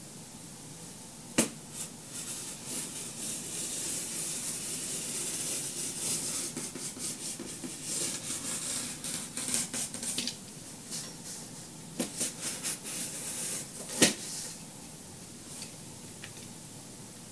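X-Acto craft knife cutting through cardboard: a run of scratchy, rasping strokes as the blade is drawn through, with two sharp clicks, one about a second and a half in and a louder one near the end.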